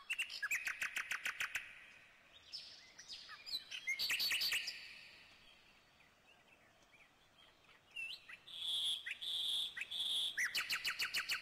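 Songbirds singing and chirping, with fast trills of repeated notes near the start, around four seconds in, and again from about ten and a half seconds in. The stretch between holds only a few soft chirps.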